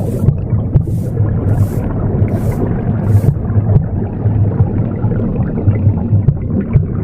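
Broom sweeping strokes, five dry swishes about every three-quarters of a second that stop a little before halfway, over the low pulsing whoosh of a womb sound.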